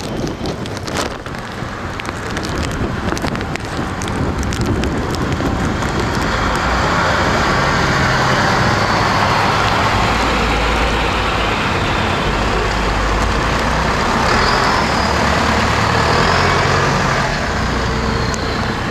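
Gusty hurricane wind rushing, building over the first several seconds and holding loud before easing slightly near the end, with low rumbling buffeting on the microphone.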